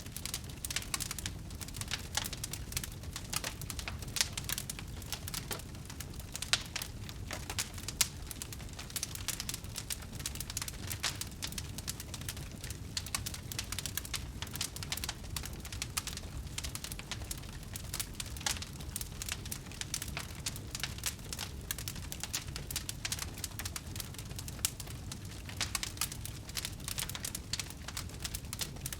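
Wood bonfire crackling, with frequent sharp irregular pops over a steady low rumble.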